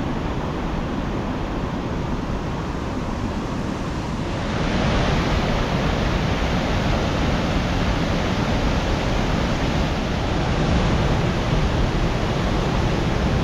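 Swollen, rain-fed creek water rushing steadily. It grows brighter and a little louder about four and a half seconds in.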